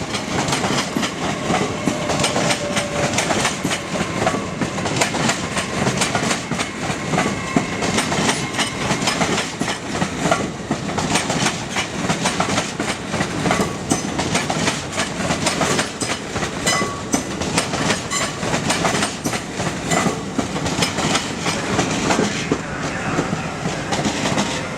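LNER Azuma, a Hitachi Class 800 train, running into the station, its wheels clattering over the rail joints and points at a steady level.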